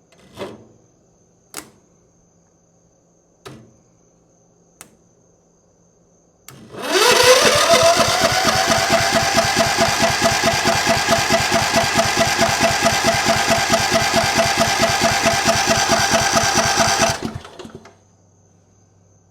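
A few light knocks, then, about six and a half seconds in, the 13.5 hp overhead-valve Briggs & Stratton engine of an MTD White lawn tractor catches, revs up quickly and runs steadily for about ten seconds before being shut off and winding down. This is the engine's first start after sitting unused for years.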